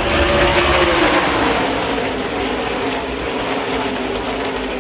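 A pack of NASCAR Truck Series V8 race trucks passes at full speed. Their engine notes fall in pitch as they go by, over a steady din of engines.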